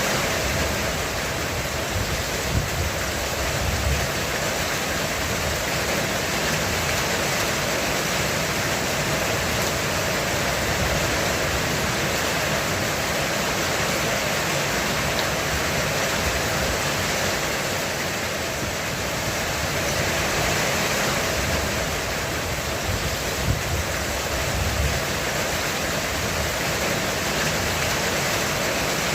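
Heavy rain falling steadily on a roof, a dense even hiss. Two brief low rumbles come through it, a few seconds in and again near the end.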